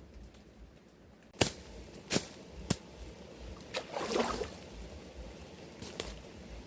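Materials being handled to build a makeshift cooking stove: a few sharp knocks, three of them between about one and a half and three seconds in and another near the end, with a brief rustling scrape around four seconds.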